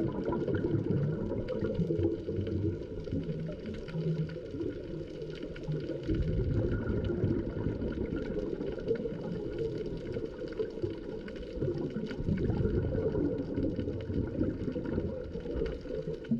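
Underwater ambience recorded through a camera housing: a muffled low rumble of water that swells and fades every few seconds, with faint crackling clicks throughout.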